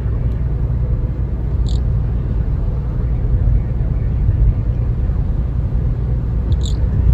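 Road and engine noise inside a moving car: a steady low rumble, with two short high squeaks about five seconds apart.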